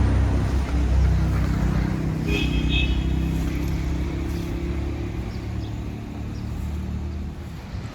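A vehicle's low running rumble, slowly fading as it moves away, with a brief high tone about two and a half seconds in.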